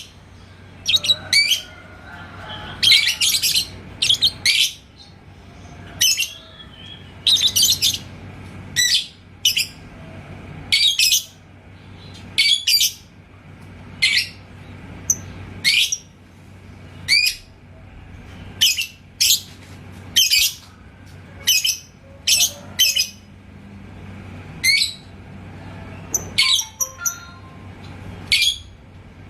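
Yellow lovebird giving short, shrill chirps over and over, some in quick pairs or clusters, about one burst a second.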